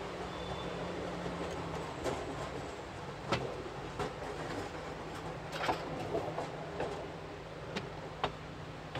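Narrow-gauge rack railway train running, heard from the cab: a steady low hum with irregular sharp knocks and clicks.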